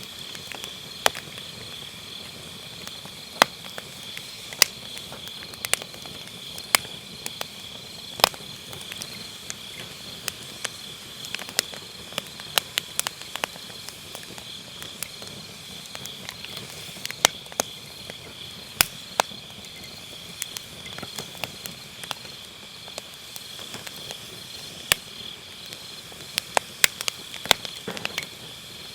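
Firewood burning in a fire pit, crackling with sharp irregular pops, over a steady high trilling chorus of autumn grass insects such as crickets. A flurry of pops comes near the end.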